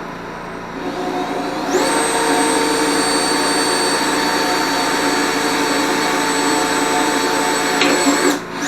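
Electric drill running at a steady speed with a high whine while drilling mounting holes in welded steel brackets; it stops near the end, then is briefly triggered again.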